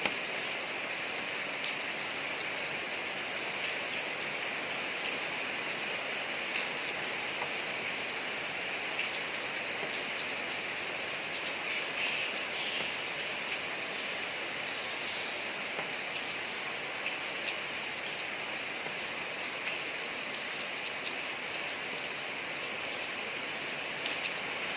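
Steady rain falling on a street, an even hiss with scattered drop ticks.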